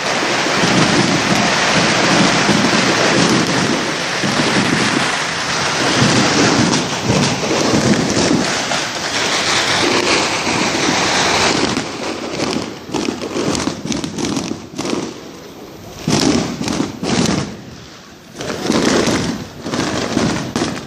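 Fireworks and firecrackers going off in a dense, continuous crackle, like heavy rain, for about twelve seconds. The crackle then thins into separate bangs and pops.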